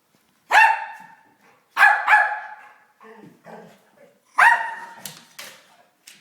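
A dog barking: four loud, sharp barks in a loose series, two of them close together, with fainter sounds in between.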